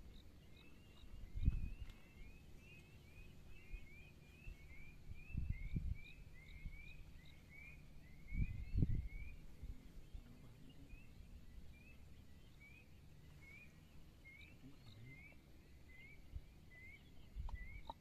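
A bird calling in a long series of short rising chirps, quick at first and more spaced out in the second half, over a faint outdoor hiss. A few brief low rumbles break in, the strongest about halfway through.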